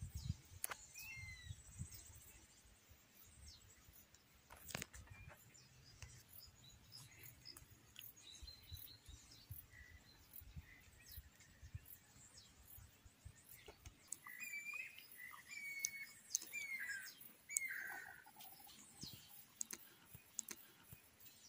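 Faint bird chirps and short whistled calls, growing clearer in a run about two-thirds of the way through, over scattered light clicks and a soft low rumble that fades out partway.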